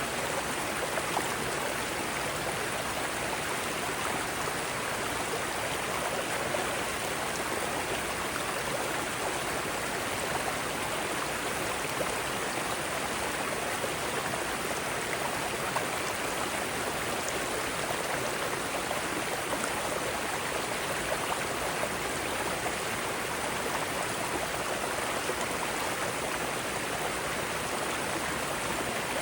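Mountain stream rushing over rocks, a steady, even wash of water noise with no change.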